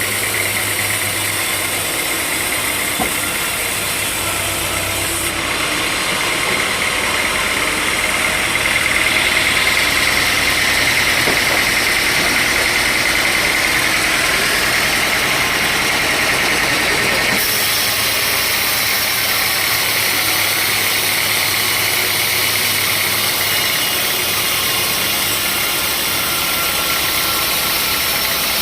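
Sawmill log saw running steadily, a high whine in its noise growing stronger through the middle. The sound changes abruptly twice, about five seconds in and again past halfway.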